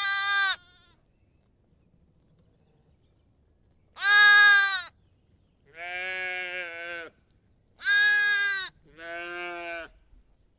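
Sheep or goats bleating: five separate bleats of about a second each, loud and softer calls alternating.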